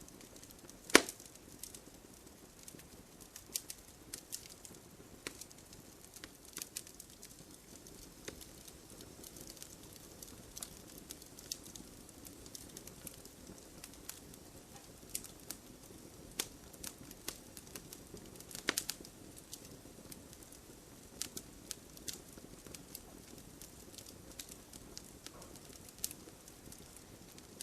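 Wood fire in a fireplace crackling: irregular sharp pops and snaps of burning logs over a soft steady hiss of flame. The loudest pops come about a second in and again a little past halfway.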